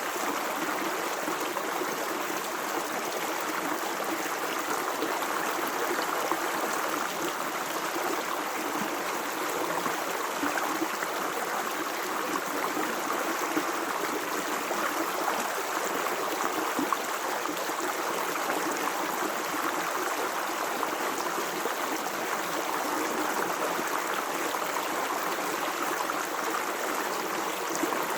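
Stream water running and gurgling: a steady, even rush of flowing water.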